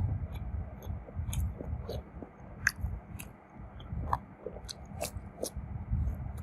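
A person chewing and biting food close to the microphone: a steady low chewing rumble with scattered crisp clicks and crunches, the sharpest about two and a half, four and five seconds in.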